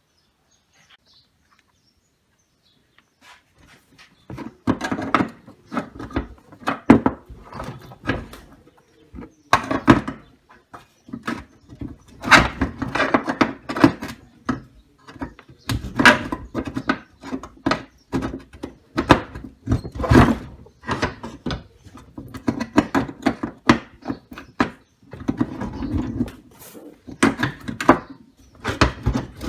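Irregular knocks, clunks and scrapes of hands working on a window air conditioner's compressor: lifting it off its mounts and wedging a stone under it. The work begins a few seconds in after a near-silent start.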